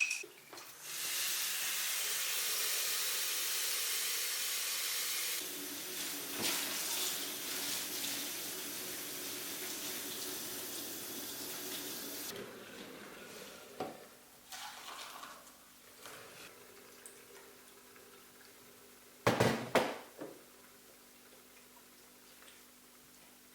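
Kitchen tap running into a sink for about ten seconds, its sound changing about five seconds in and then tailing off, followed by a faint steady hum and two sharp knocks near the end.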